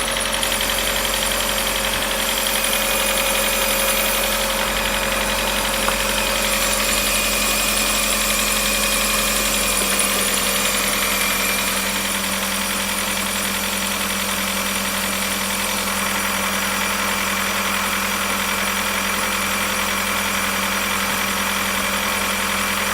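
Fiat Brava 1.6i 182A4000 four-cylinder petrol engine idling steadily, with a slight change in its low hum about ten seconds in.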